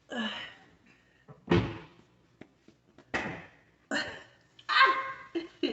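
A person belching repeatedly, about six short, loud burps about a second apart, bringing up the gas from a can of Sprite drunk fast.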